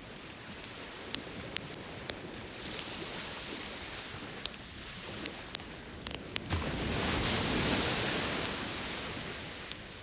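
Ocean surf washing on the shore, with one wave surging loudest about two-thirds of the way through. Over it, a wood campfire pops with scattered sharp crackles.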